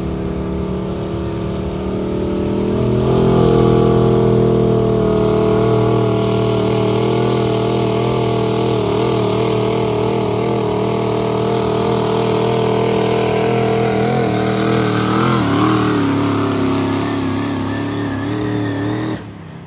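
A pulling vehicle's engine at full throttle during a pull down the track. It revs up about three seconds in, holds a high wavering pitch, sags lower near the end as the load builds, then cuts off suddenly.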